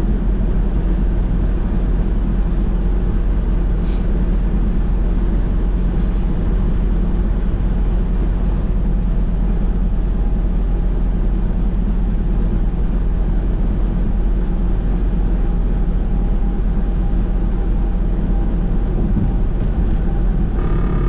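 Steady drone of a semi truck's diesel engine and road noise, heard from inside the cab while driving.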